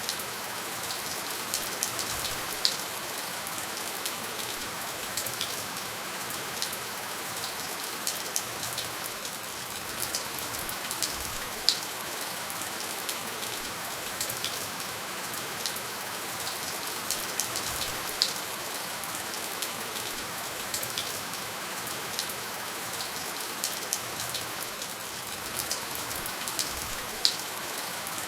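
Steady rainfall with no thunder: a constant hiss of rain, with individual drops ticking sharply every second or so.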